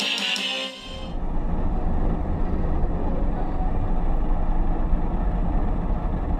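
Music cuts off about a second in, giving way to the steady low rumble of a train in motion.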